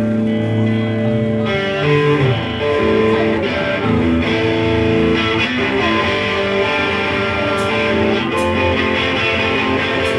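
Live band playing, led by electric guitar with changing chords and notes, with a few sharp hits in the second half.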